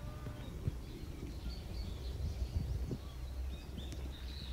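Small birds chirping in short repeated calls, over a steady low rumble.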